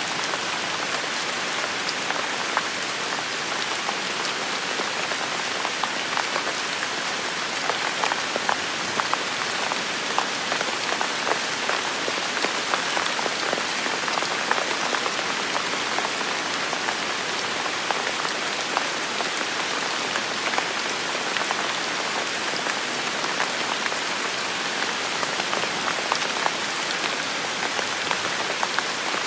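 Heavy rain falling steadily, a dense even hiss with many individual drops pattering and clicking through it.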